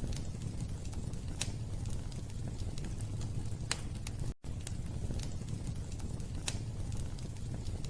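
Wood fire burning in a fireplace: a steady low rumble with occasional sharp crackles. The sound cuts out for a split second a little past halfway.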